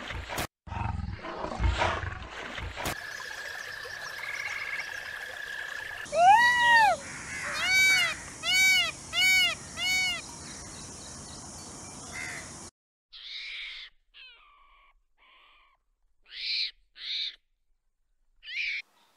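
Indian peafowl (peacock) calling loudly, about six calls in a row, each rising and falling in pitch. Before it a deep growling roar and a steady high whistling tone; after it a few short, high calls.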